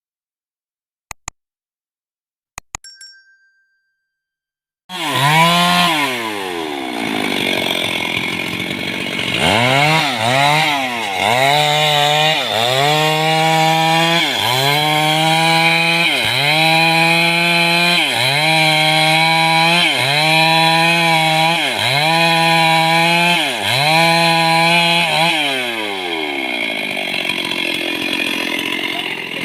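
Stihl two-stroke chainsaw starting up about five seconds in, then its engine speed repeatedly dipping and climbing back about once every second and a half, before easing off near the end.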